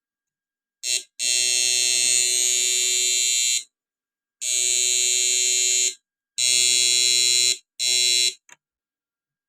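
Small electrofishing inverter buzzing loudly in bursts as it is switched on and off: about five bursts lasting from a quarter of a second to two and a half seconds, then a brief blip near the end.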